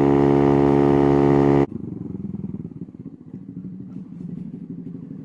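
Honda Navi's single-cylinder engine running at steady high revs through a Hot Lap aftermarket exhaust at near top speed. It cuts off suddenly about a second and a half in, and a much quieter, low, rapidly pulsing engine sound follows.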